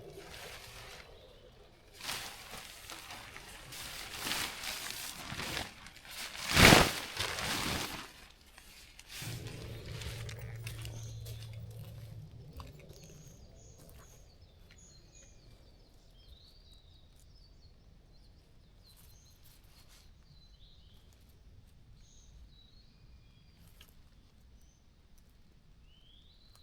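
Rough rustling and handling noise, with one loud knock near the middle of it, for the first several seconds; then small birds chirping repeatedly over quiet forest ambience.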